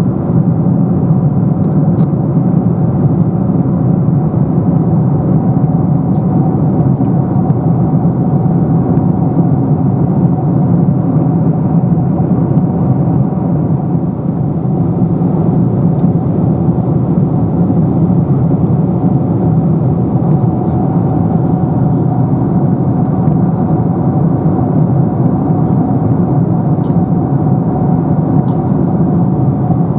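Steady cabin noise of a Boeing 747-400 airliner in cruise flight: an even, deep rush of airflow and engine sound with a faint steady hum.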